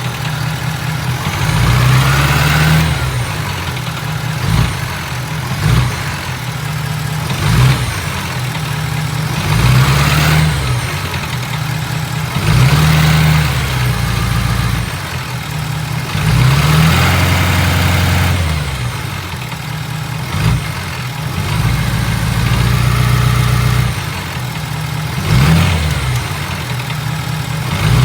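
Ford 6.7 L Power Stroke V8 turbodiesel, warmed up, idling and revved up in repeated short blips every few seconds. It has a rattle in the motor that the owner cannot trace. Mechanics found all the injectors firing fine but say it doesn't sound right.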